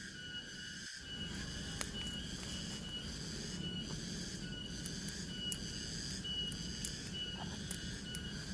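Night-time forest insect chorus: layered steady buzzing and trilling, with a short high note repeating throughout and a few faint clicks.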